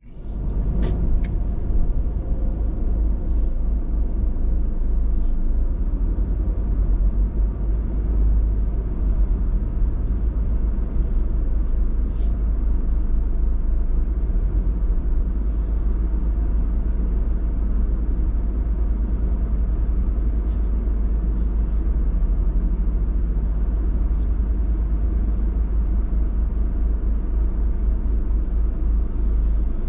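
Steady low rumble of a car, with a few faint clicks scattered through it.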